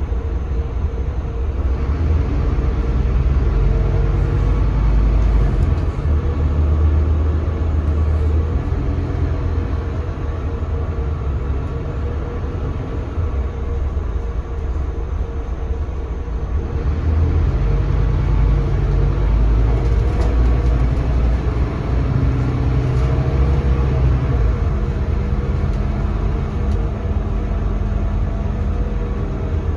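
Scania K320CB bus driving, heard from inside the cabin: the Scania DC9 five-cylinder diesel runs with a low rumble and road noise. The engine sound swells twice, easing off in between, as the bus speeds up and slows down.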